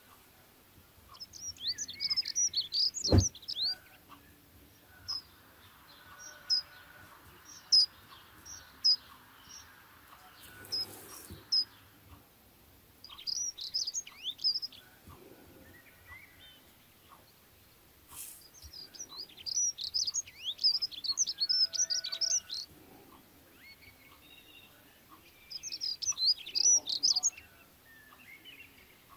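A small bird chirping and twittering in quick bursts of high notes, several bursts a few seconds apart. A single sharp knock about three seconds in.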